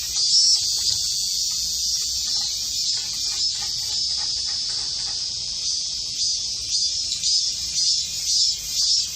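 Cicada buzzing continuously, a high-pitched drone that holds steady throughout.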